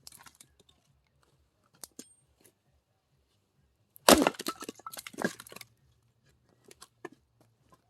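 An axe strikes a dry log about four seconds in, and the wood cracks and splinters apart for about a second and a half. A few light knocks come before it.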